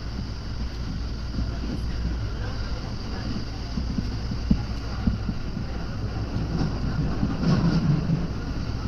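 JR commuter train running, heard from inside the carriage: a steady low rumble of the wheels on the track, with a couple of brief knocks around the middle and a louder stretch near the end.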